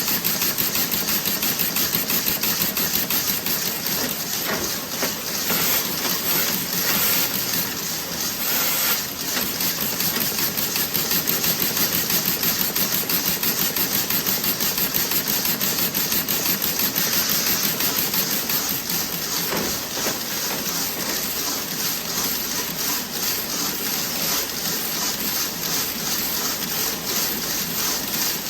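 Toe-sock knitting machine running, a fast, even mechanical clatter that repeats steadily.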